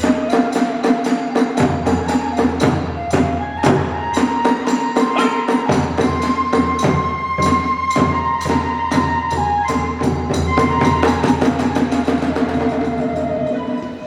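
Kagura hayashi music: a fast, steady beat of drums and small hand cymbals, about three or four strikes a second, under a bamboo flute that holds a long high note through the middle.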